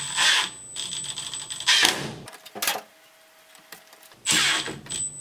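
Handling noises from work on a washing machine's water inlet valve and its connectors. There are several short bursts of rattling and scraping, a lone click in a quieter pause, and more handling near the end.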